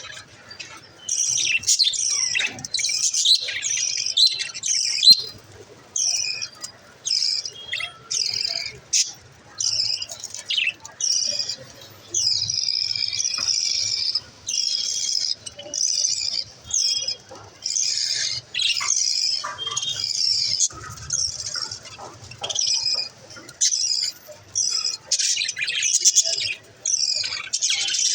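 Pet budgerigars chirping and chattering in a rapid, almost continuous run of short high calls with brief pauses.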